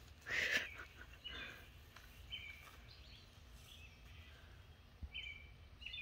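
Birds calling: short chirps repeated every second or so, over a faint steady background. A brief, louder noise comes about half a second in.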